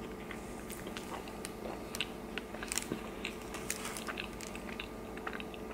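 A person biting into and chewing a beef burrito close to the microphone: a run of soft, irregular wet mouth clicks.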